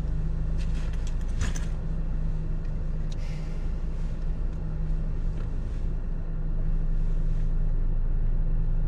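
Car engine running with a steady low hum, heard from inside the car, with a few light clicks about a second in. The hum grows a little louder near the end.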